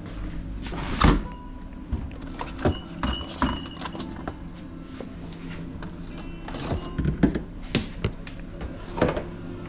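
Kitchen handling sounds from burrito assembly: irregular knocks, taps and clicks of utensils and food being handled, the loudest about a second in and again around seven seconds, over a steady low hum.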